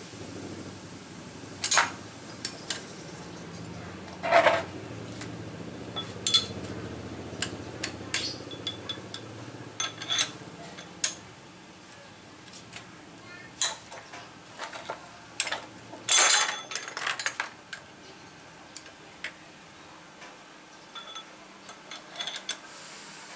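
Metal tools and parts clinking and clanking in irregular knocks over a low engine hum, which fades out about two-thirds of the way through.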